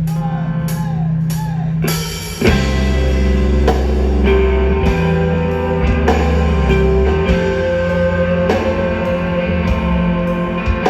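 Live rock band playing an instrumental passage: electric guitar over drums, with the full band crashing in much heavier about two and a half seconds in.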